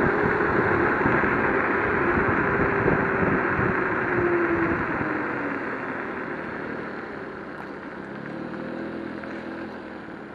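Wind and road noise from riding an electric scooter, with a faint whine that drifts slightly lower. The noise eases off from about halfway through.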